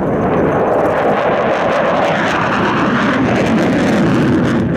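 Military jet aircraft taking off, its engine noise loud and steady, its strongest pitch rising through the middle.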